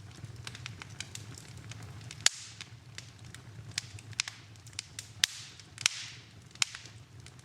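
Wood fire in a fireplace crackling, with irregular sharp pops over a steady hiss; the loudest pop comes about two seconds in, with a cluster of pops near the end.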